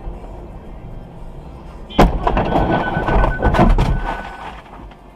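A sudden loud bang about two seconds in, then about two seconds of clattering and rattling with several sharp hits, over background music.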